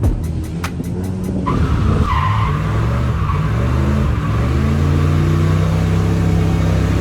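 Drift car's engine revving, its pitch climbing and dropping several times, with tyres skidding.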